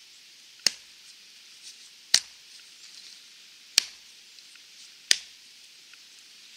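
Small Wetterlings Wildlife hatchet with a hickory handle chopping into a fallen log, swung two-handed. Four sharp strikes land about one and a half seconds apart.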